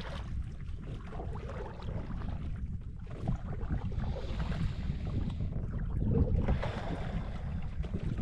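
Wind rumbling on the microphone from a canoe on a lake, with two hissing rushes of water from paddle strokes, about four and six seconds in.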